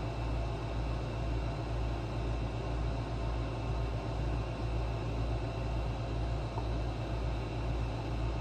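Steady low mechanical hum with a slow, regular throb about twice a second.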